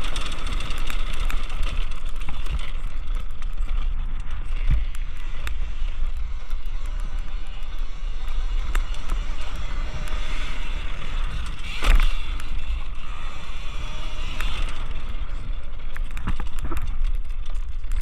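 Talaria electric dirt bike being ridden, a steady electric-motor whine over low wind rumble on the microphone, with scattered knocks, the loudest about twelve seconds in.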